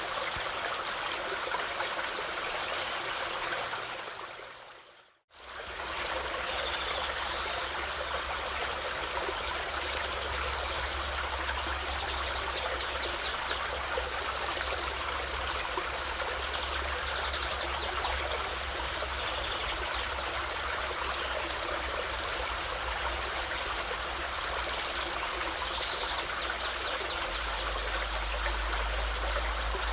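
River water flowing steadily over rocks. About five seconds in it fades out and comes straight back, a join between two recordings, after which a low rumble runs under the water.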